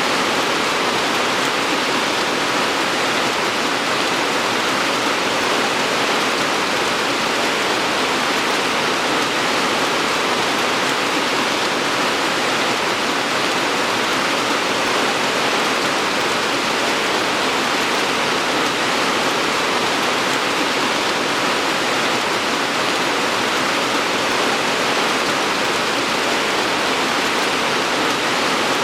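Steady rain falling, a dense even hiss of drops with no breaks or separate events.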